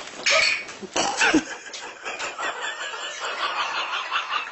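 Person laughing, in quick repeated bursts.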